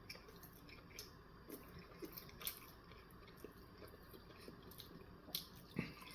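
Faint chewing of a steak, egg and cheese bagel sandwich, with soft wet mouth clicks and smacks at irregular moments, a couple of them louder near the end.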